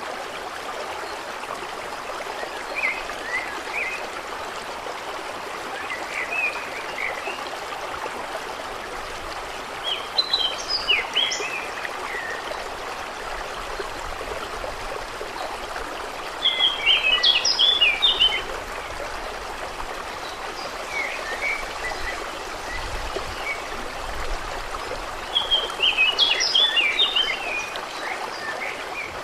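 Steady trickling of gently running water, with songbirds calling in short bursts of quick chirping notes every few seconds; the three longest bursts stand out clearly above the water.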